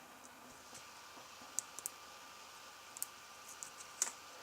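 Faint light clicks and taps of trading cards being handled and shuffled, a few scattered clicks over a steady low hiss with a faint steady tone.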